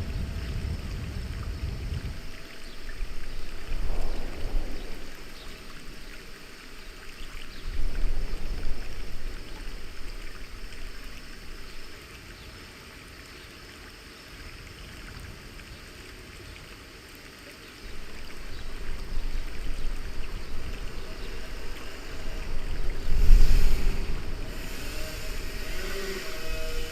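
Water rushing and splashing around a river-rapids raft, swelling louder several times with a quieter stretch in the middle.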